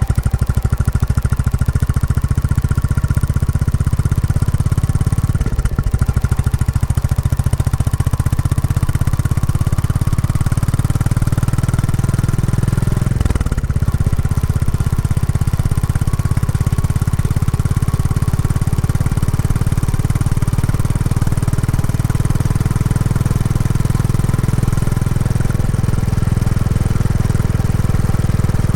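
Royal Enfield Classic 350 single-cylinder engine running through the stock exhaust while being ridden, a steady low thumping exhaust note. The engine is new and still being run in. The note dips and shifts briefly about halfway through.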